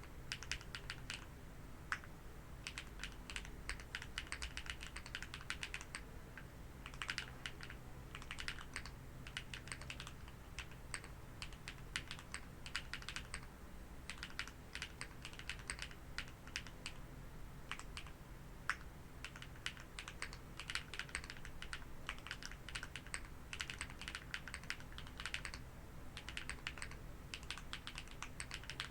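Typing on a custom TKD Cycle 8 mechanical keyboard with plateless-mounted HMX Green Apple switches and Keykobo keycaps, built without foam. It gives fast runs of sharp keystroke clicks in bursts with brief pauses between.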